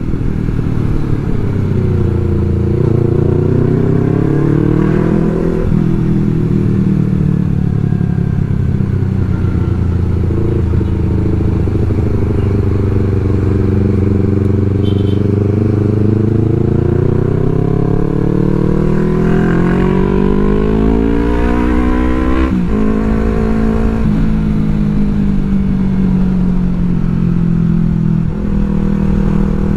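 Yamaha R3's parallel-twin engine under way, its pitch rising and falling as the revs change, with sudden drops in pitch at gear changes about six seconds in and again about 22 seconds in.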